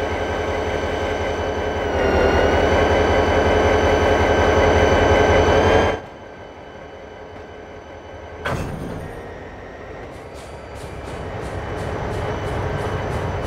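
Train running with a low rumble and a sustained tone; it cuts off abruptly about six seconds in. A sharp click follows, then a quieter rail rhythm of about three clicks a second.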